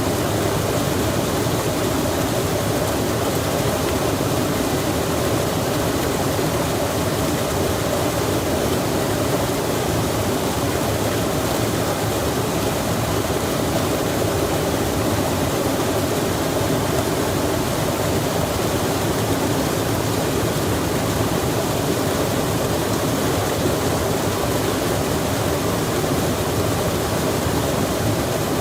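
Rain falling and a stream running: a steady, unbroken rush of water.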